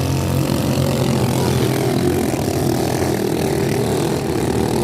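Racing motorboat engine running loudly at speed, a steady low drone with a rough, noisy edge.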